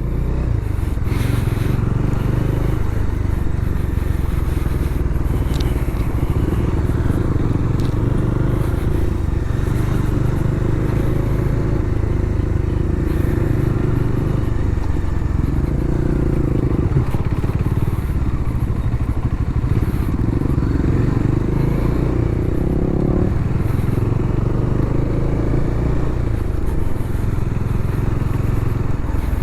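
Bajaj Dominar motorcycle engine running under way, with road and wind noise. The engine note climbs twice during the ride and drops sharply about 23 seconds in.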